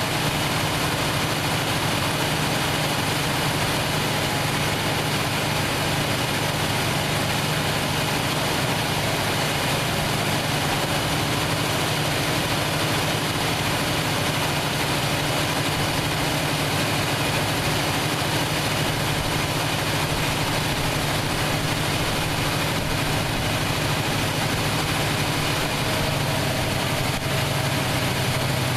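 1968 Plymouth Fury's 383 big-block V8 with a four-barrel carburettor idling steadily, running again after years out of action.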